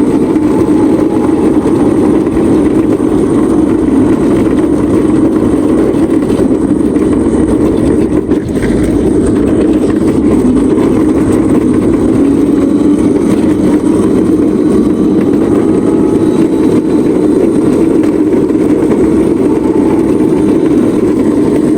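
A small vehicle running steadily while being ridden, with a brief dip about eight seconds in.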